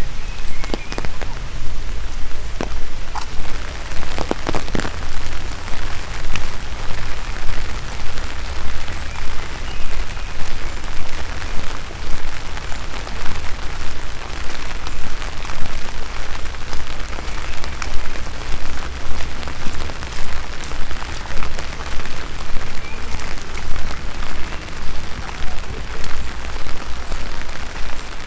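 Steady rain falling, with scattered sharper drops. A regular beat of footsteps comes about once a second.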